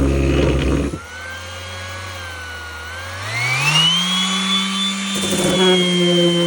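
Electric rotary sander: the rough sound of sanding stops about a second in, leaving the motor running with a steady hum that rises in pitch between about three and four seconds in and then holds as a higher whine, with a couple of brief scuffs near the end.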